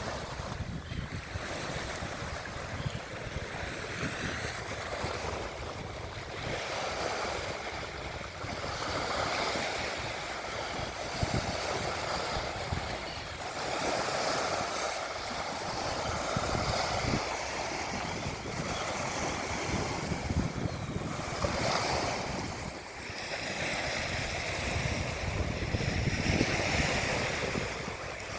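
Wind buffeting the microphone, a low rumble over a rushing noise that swells and fades every few seconds.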